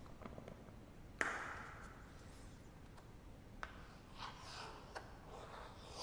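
Quiet study-ambience mix of a wood fire, paper and rain: one sharp snap about a second in, then a few lighter ticks and soft rustles over a faint steady hiss.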